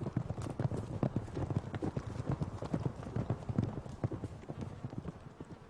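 Hoofbeats of wild horses moving about, many irregular thuds that grow fainter toward the end.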